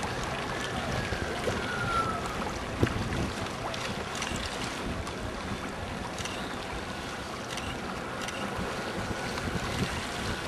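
Wind rushing over the microphone with waves and water noise, steady throughout. A faint whine rises and falls in pitch during the first two seconds.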